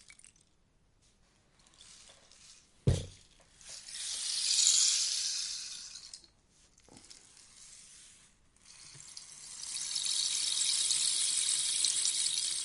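Rainstick tipped over, its filling pouring down inside in a rushing patter that swells and fades twice, with one sharp knock about three seconds in.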